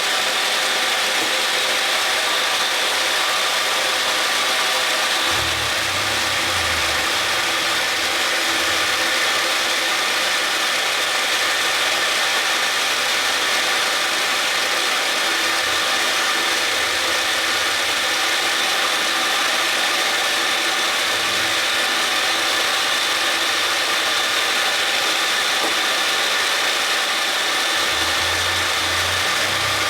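Milling machine spindle running at a steady whine while drilling a 4.8 mm hole through a plastic gear blank. A low rumble comes in briefly about six seconds in and again near the end.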